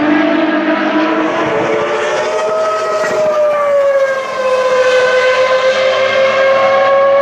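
Ferrari racing car engine held at high revs, a steady high engine note that rises slightly, drops a little about four seconds in and then holds level.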